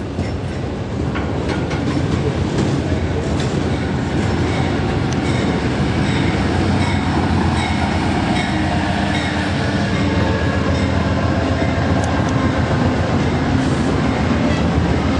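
A train passing close by: a loud, steady rumble of wheels on rail with some clicking, growing louder over the first couple of seconds.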